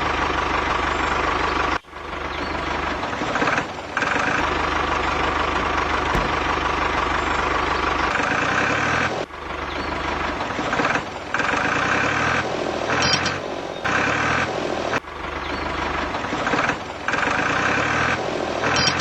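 A small machine's motor running steadily, with a low hum, cutting off and changing abruptly several times.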